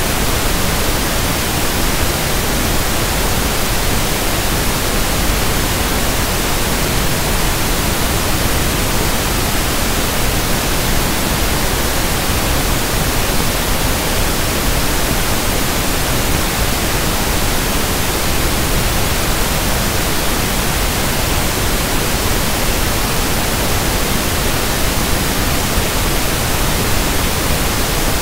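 Steady, unchanging pink noise (1/f noise): an even hiss with no tones or events in it.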